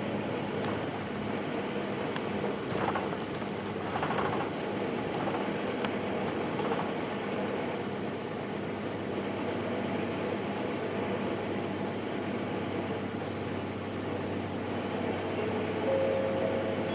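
Nissan Diesel Space Runner RM bus's FE6 straight-six diesel engine heard from inside the cabin, running steadily at an even engine speed with no gear changes, with a few faint knocks and rattles.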